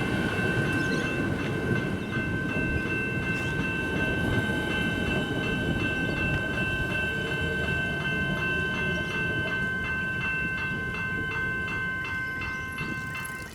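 General Signals electronic level-crossing bells ringing steadily while a train runs past with a low rumble. The rumble fades and the bells cut off suddenly at the end as the crossing clears.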